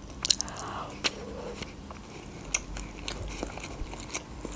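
Close-miked chewing of a mouthful of soft rice pilaf, with scattered light wet mouth clicks. Near the end, a light clink of a metal fork in the bowl.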